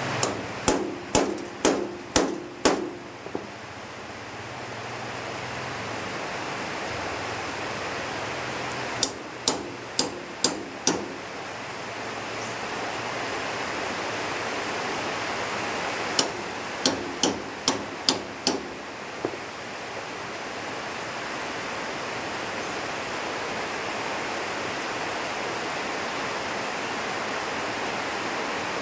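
Three runs of hammer blows on metal, five or six strikes each at about two a second, each blow ringing briefly, over a steady hiss of heavy rain.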